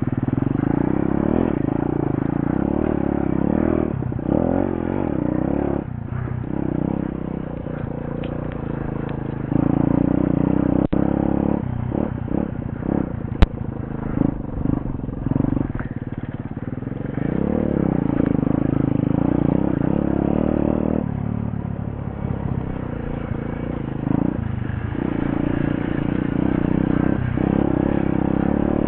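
Pit bike engine running while the bike is ridden, its revs rising and falling over stretches of a few seconds, with one sharp click about halfway through.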